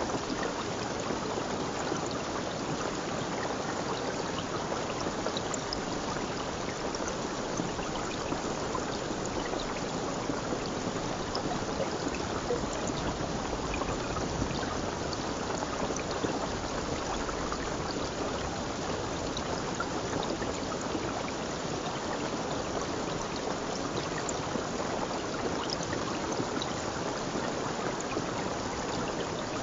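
A stream of running water, a steady rushing and trickling with small splashes scattered through it.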